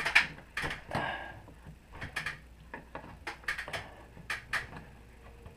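Scattered, irregular light clicks and knocks from hands and tools handling parts during work on a heat pump water heater's electrical connection.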